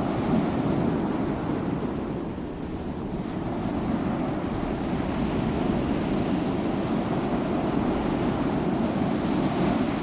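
Sea waves washing onto a shore in a continuous rushing surf, swelling and easing slightly, with a dip about two seconds in.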